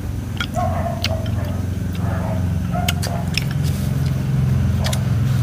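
An engine runs steadily with a low hum, growing a little louder about four seconds in. Scattered sharp clicks and a few short high chirps sound over it.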